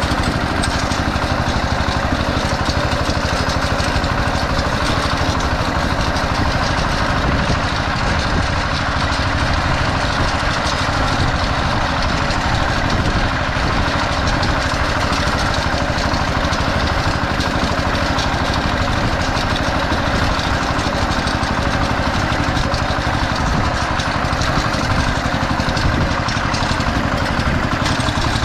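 Diesel walk-behind tractor (Kentavr MB 1010DE) engine running steadily under work, an even rapid chugging with no change in speed.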